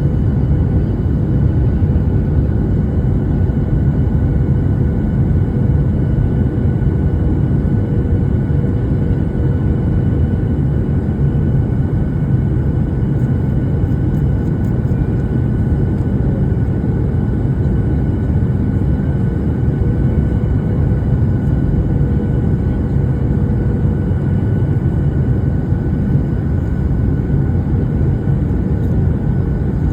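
Airplane in flight: a steady roar of engines and rushing air with a few faint steady whining tones above it.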